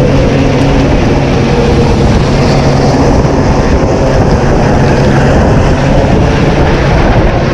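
Loud, steady engine drone over dense rushing noise; its low hum drops away about five and a half seconds in.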